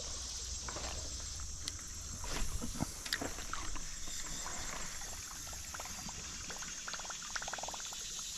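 Water lapping and trickling around a kayak on a river, with a few light knocks and clicks against the boat about two to three seconds in.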